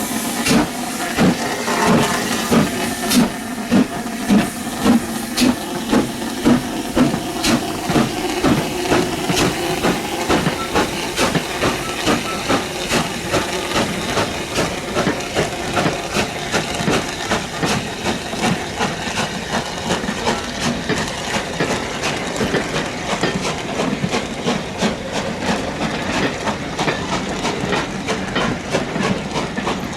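Steam locomotive pulling away: its exhaust chuffs start at about one and a half a second, then quicken and grow fainter, over a steady hiss of steam.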